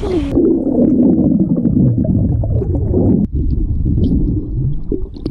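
Muffled, gurgling water sound of a phone microphone held underwater, dull and bubbly, with the high end cut off suddenly just after the start.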